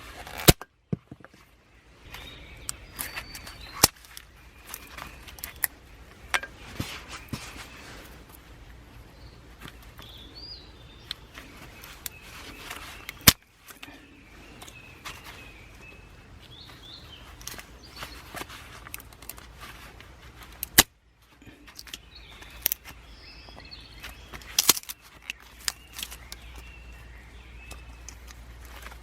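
Scattered sharp clicks and knocks, a few of them loud, with birds chirping now and then over a steady low background.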